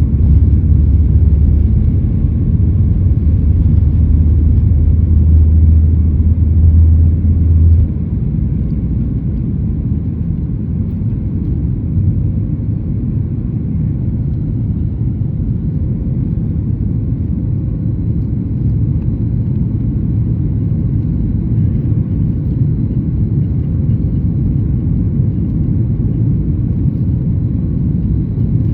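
Cabin noise of a Boeing 737 MAX 8 climbing out after takeoff: a steady rumble of its CFM LEAP-1B engines and airflow. A deep drone cuts off sharply about eight seconds in, leaving a quieter steady rumble.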